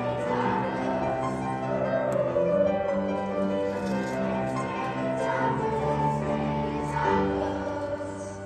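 A choir singing in held, sustained notes, dying away near the end as the song finishes.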